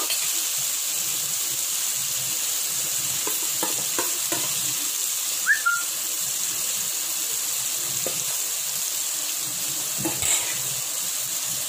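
Marinated paneer cubes frying in hot oil in a kadai over a medium flame, giving a steady sizzle. A few light taps and a short high squeak come about halfway through.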